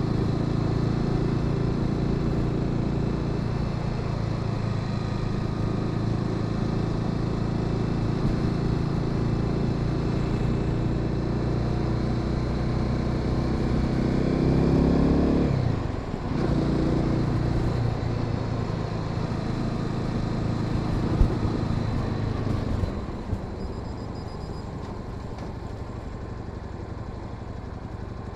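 Honda Sahara 300 single-cylinder motorcycle engine running under way. The revs climb about halfway through and drop sharply at a gear change. Near the end the engine settles lower and quieter as the bike slows, with a single sharp click a little before that.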